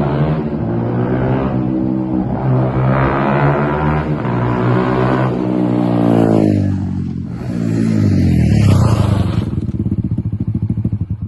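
Pit bike engine running and revving, fitted with aftermarket end cans. Its pitch climbs and falls several times, and the sound cuts off suddenly at the end.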